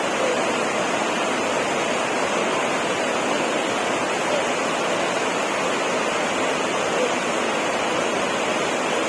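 Rushing water, a waterfall or fast stream, making a steady, unbroken roar.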